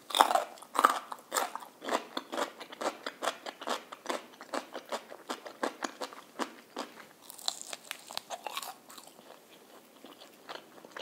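Chewing of crispy fried food close to the microphone: quick, sharp crunches with each bite, thinning out about nine seconds in.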